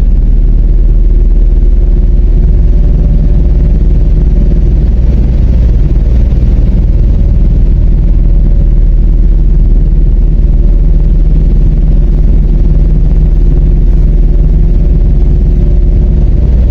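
MAZ 103 city bus under way, heard from inside: the engine's steady drone over a loud low rumble.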